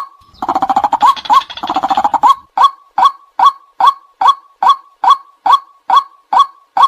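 White-breasted waterhen calling. For about two seconds there is a dense run of rapid croaking notes, then it settles back into a steady series of single "kwak" notes at about two a second. This is a recorded call of the kind played to lure waterhens.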